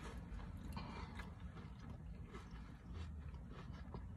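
Faint chewing of a burger and onion rings, with scattered small mouth clicks, over a steady low hum inside a car.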